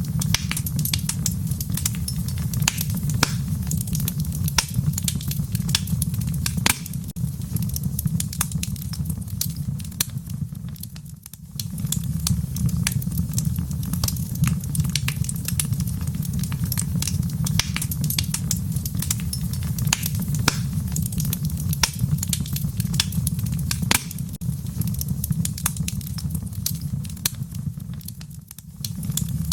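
Fire crackling in a fireplace: a dense run of sharp pops and snaps over a steady low rumble. The rumble drops away briefly twice, about eleven seconds in and just before the end.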